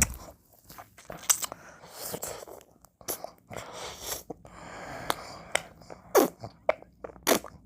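Close-miked mouth sounds of eating ice cream: wet licks, lip smacks and sharp mouth clicks, with a few breathy slurping stretches in between.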